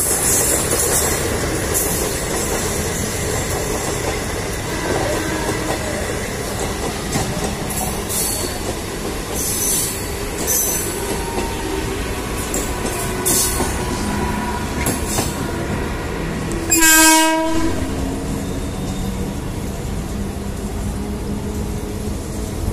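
Electric passenger train running, heard from a coach window: a steady rumble of wheels on track with scattered clicks and clatter over rail joints. About three-quarters of the way through comes one loud train horn blast lasting about a second.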